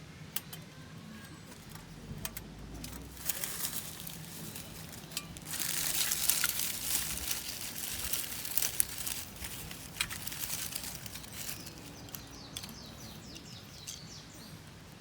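Rustling, crinkling and clicking of kindling and gear being handled, densest and loudest for about six seconds through the middle, with faint bird chirps near the end.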